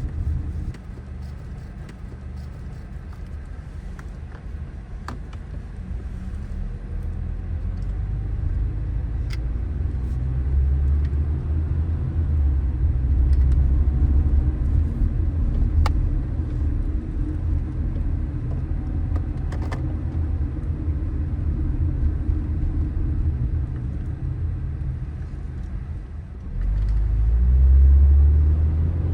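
Car driving on city streets: a steady low rumble of engine and road noise that builds over the first ten seconds or so and swells louder briefly near the end.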